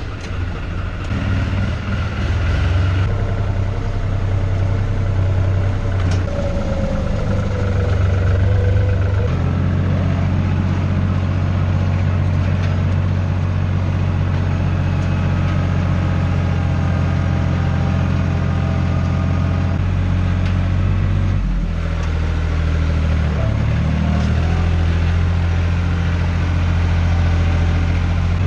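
Tractor diesel engine running steadily just after starting, its engine speed shifting about nine seconds in and again around twenty-two seconds in.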